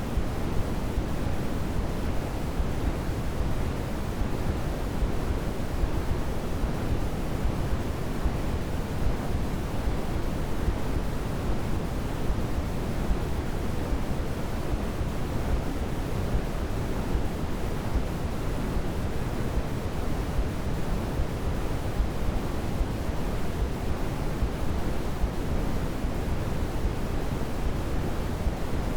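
Steady, unchanging white noise from a sleep-aid track, with most of its weight in the low end.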